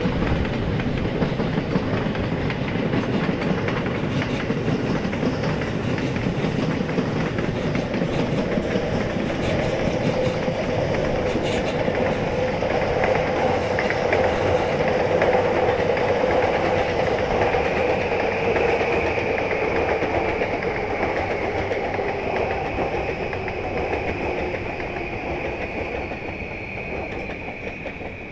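JR electric trains running past on the tracks below, a steady rumble of wheels on rail with clickety-clack. A high whine comes in about two-thirds of the way through and slowly falls in pitch, and the sound fades near the end as the trains draw away.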